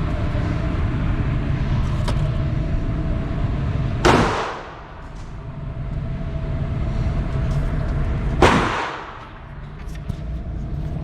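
Two sharp, loud gunshots about four seconds apart over a steady low background rumble; after each shot the background briefly drops away and then returns.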